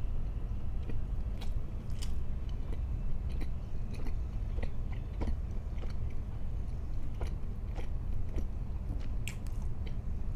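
Close-miked chewing and biting of food, with irregular small crisp crackles and clicks, over a steady low hum.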